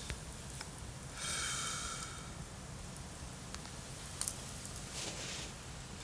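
Wood fire burning, with scattered sharp crackles and pops and a steady low rumble; a brief hiss with a whistling edge about a second in and a fainter hiss near the end, like steam or gas escaping from burning wood.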